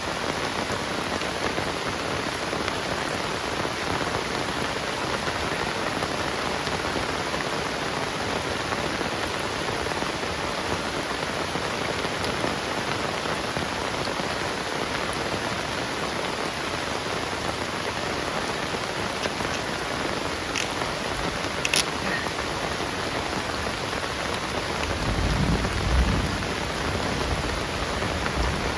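Heavy rain falling steadily, a dense even hiss of drops, with a couple of sharp ticks and a brief low rumble near the end.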